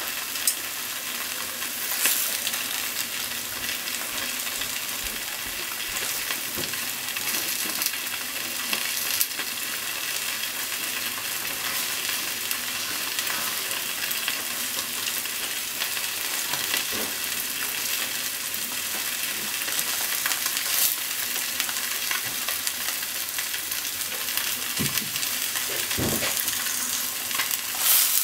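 Starch-coated tofu cubes sizzling steadily as they fry in a frying pan, with a few short knocks of wooden chopsticks against the pan as the pieces are turned, mostly near the end.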